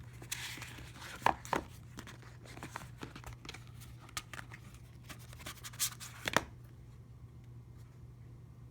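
Packaging being handled: rustling and crinkling, with a few sharp clicks, the last two close together about six seconds in, then it goes quiet apart from a low steady hum.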